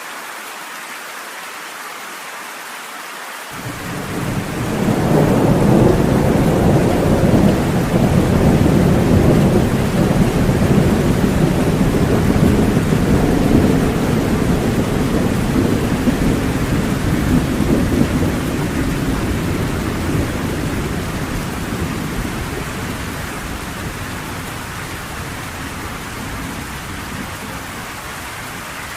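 Steady rain with a long roll of thunder: about three and a half seconds in a deep rumble swells up, holds for several seconds and dies away slowly under the rain.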